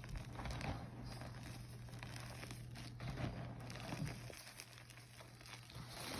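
Blocks of gym chalk being crushed and crumbled by hand into powder, giving soft, irregular crunching and crackling.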